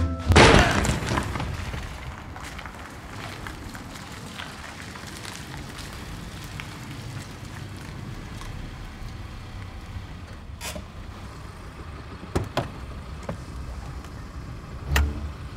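A loud sudden bang right at the start that dies away over a couple of seconds, then a steady low rumble of a car idling in the rain, broken by a few sharp clicks near the end.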